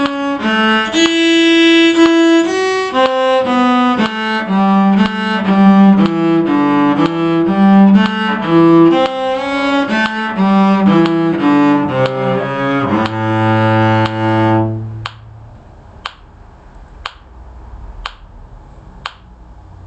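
A bowed string instrument playing a quick run of notes from a bluegrass fiddle-tune phrase, ending on a held low note at about fifteen seconds in. After that, faint ticks about once a second.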